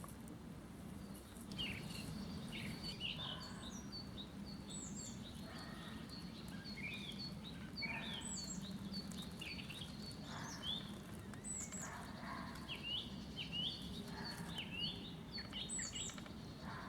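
Several songbirds singing in a spring forest dawn chorus, with many short chirps and whistles, some sliding up or down in pitch, overlapping from about a second and a half in. A steady low hum runs beneath them.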